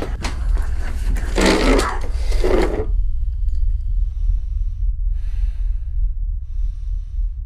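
A deep, steady low rumble underneath throughout. In the first three seconds a burst of loud, harsh noisy sounds with sharp clicks, loudest about a second and a half in, cuts off abruptly; then slow, heavy breaths follow, about one a second.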